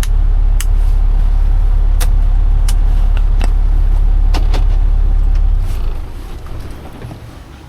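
Semi truck's diesel engine idling with a deep, steady rumble and scattered sharp clicks, then shut off about five and a half seconds in.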